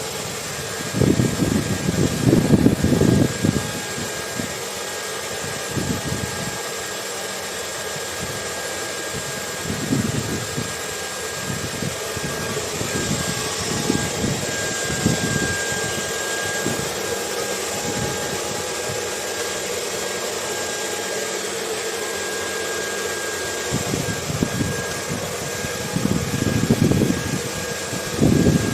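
Hair dryer running steadily, an even hiss with a faint steady whine, layered with low gusts of wind that surge now and then, strongest near the start and near the end.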